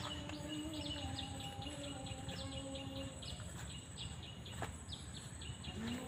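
Small birds chirping: a quick, continuous run of short, high, downward-sliding chirps, several a second. Under it runs a steady low hum that stops about halfway and comes back near the end.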